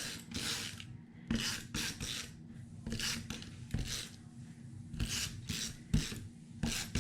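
Repeated short rasping rubs of paper on a craft table, about a dozen strokes spaced unevenly, as scrapbook paper pieces are handled and rubbed down.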